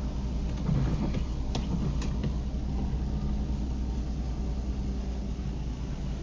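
Car running on a road, heard from inside the cabin: a steady low engine and road rumble, with a few short clicks in the first two seconds.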